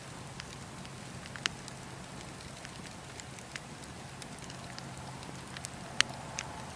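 Wood campfire crackling: a steady soft hiss with scattered sharp pops, the loudest about six seconds in.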